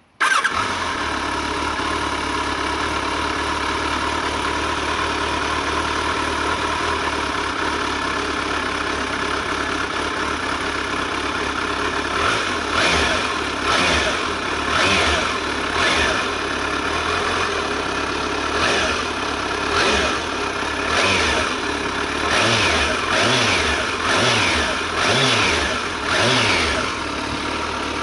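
Kawasaki ZRX1200 DAEG's inline-four engine, heard through its exhaust, starts at the very beginning and idles steadily. From about halfway it takes a dozen or so short throttle blips, roughly one a second, each revving up and dropping back, then settles to idle near the end.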